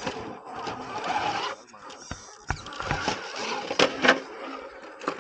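RC scale crawler truck driving over rough ground: its small electric motor whirring as the tires and chassis scrape and clatter over rock, with two sharp knocks about four seconds in.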